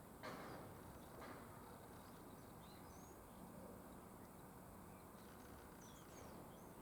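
Quiet outdoor ambience with a few faint, brief bird chirps, plus two short swishing noises about a second apart near the start.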